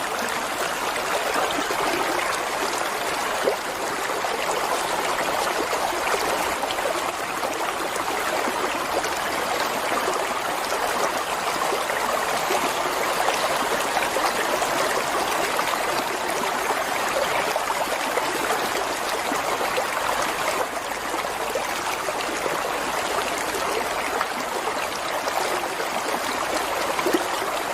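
Flowing water running steadily, an even, unbroken rush with no change in level.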